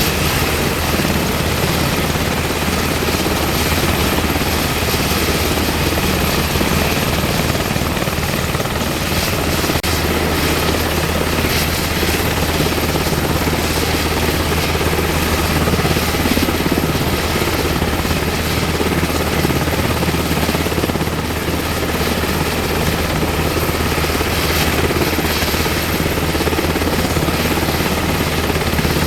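UH-60M Black Hawk helicopter running steadily, its rotor and twin turboshaft engines making a loud, even noise with no change in pitch or level.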